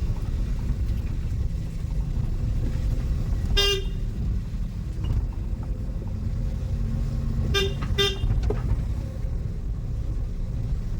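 Steady low rumble of a car's engine and road noise inside the cabin as it drives slowly, with a short horn toot a few seconds in and two quick toots a little past halfway.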